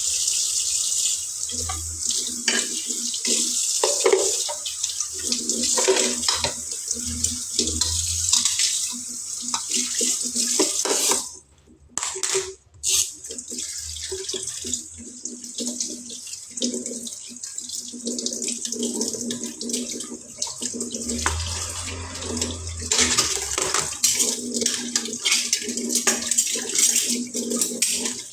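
Water running from a tap into a sink, with scattered knocks and clatter. The flow stops briefly about halfway through, then starts again.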